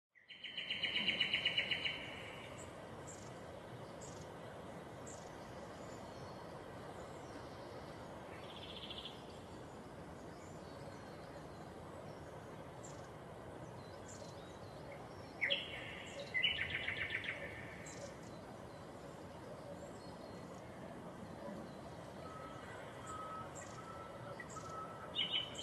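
Birds calling: clusters of short, high chirps, loudest near the start and again about two-thirds of the way through, over a steady outdoor background hiss.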